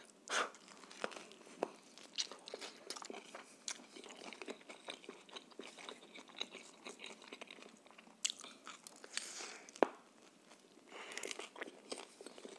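Close-miked eating of a homemade shawarma in a flatbread wrap: a bite about half a second in, then chewing with many small clicks and crackles, and one sharp click about ten seconds in.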